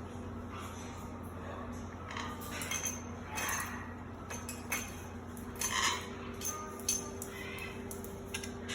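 Scattered light clinks and taps of small hard objects, the kind made by baby parrots knocking plastic toys about, over a steady low hum.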